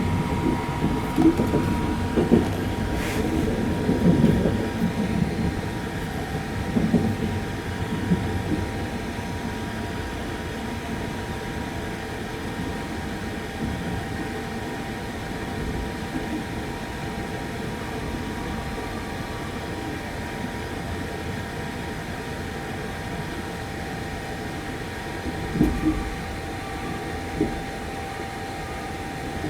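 Inside the cabin of a 285-series Sunrise Izumo sleeper train: a steady rumble with a faint steady hum. A few louder bumps come in the first several seconds and two short ones near the end.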